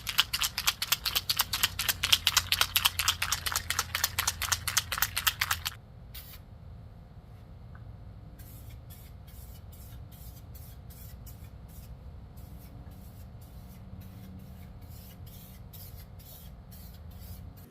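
Eastwood 2K AeroSpray epoxy primer aerosol can being shaken hard, its mixing ball rattling about six times a second to mix the punctured-in hardener with the primer. About six seconds in the shaking stops, and a much quieter run of short strokes about twice a second follows.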